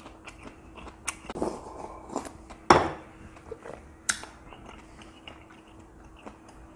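Close-miked eating: a person chewing a mouthful, with wet smacks and lip clicks, a few sharp ones, the loudest about three seconds in.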